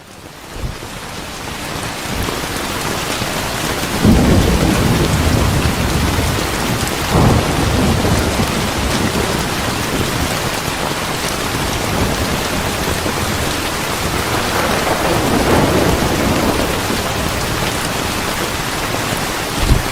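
Steady heavy rain hiss that fades back in over the first couple of seconds, with low rolls of thunder about four seconds in, again around seven seconds, and a longer rumble around the middle-to-late part.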